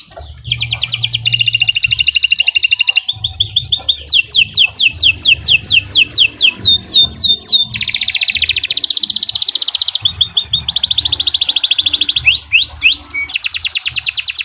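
Domestic canary singing a long continuous song of rapid trills and rolls, each phrase a fast run of one repeated note. The phrases switch every second or two, and one stretch is a series of falling slurred whistles.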